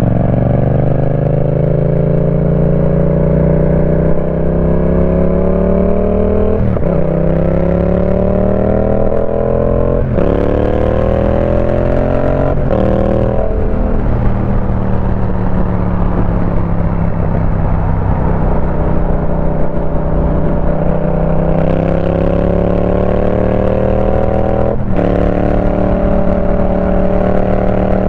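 Yamaha Tracer 700's 689 cc parallel-twin engine through a TEC full exhaust system, pulling hard and rising in pitch, with a sudden drop at each upshift three times in the first half. It holds a steady pitch for several seconds, then pulls again with another upshift near the end.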